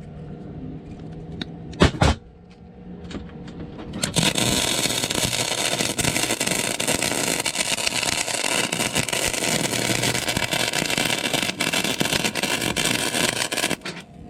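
Electric welder laying a weld bead on steel: a dense, crackling sizzle that starts about four seconds in, runs for about ten seconds and cuts off suddenly near the end. A sharp knock comes about two seconds in, before the arc starts.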